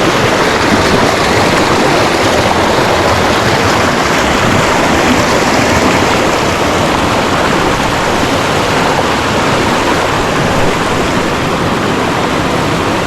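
Creek water rushing steadily, a loud, even hiss.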